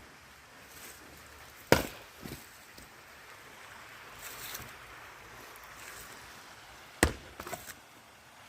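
Wooden-handled axe splitting firewood: two sharp chops about five seconds apart, each followed by a few lighter knocks of wood.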